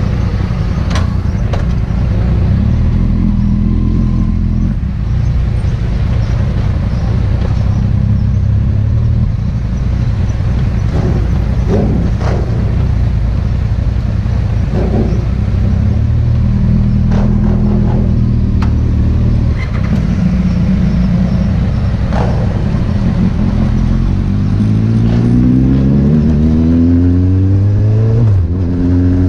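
Kawasaki Z800 inline-four engine running at a steady cruise, then revving up with a rising pitch as it accelerates. Near the end the note drops sharply at a gear change and climbs again.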